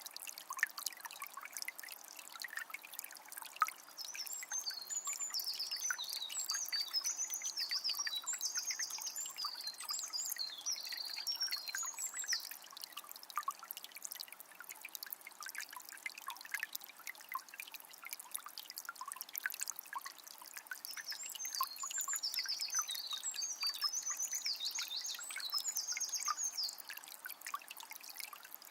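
A small spring's water trickling and splashing steadily. A bird sings two long stretches of high, rapid, varied song over it, one starting about 4 seconds in and one about 21 seconds in.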